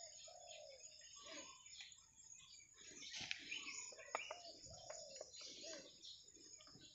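Faint bird calls: short chirps and repeated arching calls, with a few faint clicks and rustles about halfway through.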